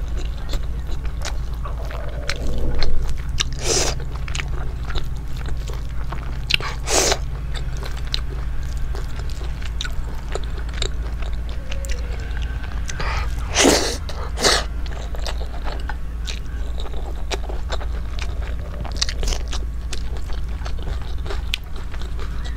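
Close-miked chewing and lip-smacking of a person eating rice and curry by hand, with a few louder, sharper mouth clicks spread through, over a steady low hum.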